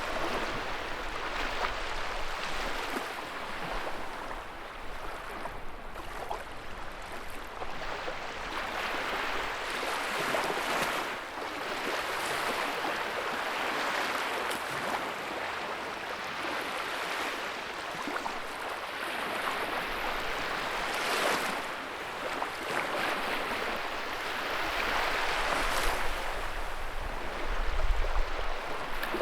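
Wood fire in a fireplace crackling, with a steady hiss and many small sharp pops that swell and ease off every few seconds.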